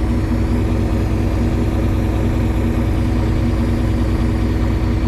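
An engine idling steadily, with an even low hum that does not change.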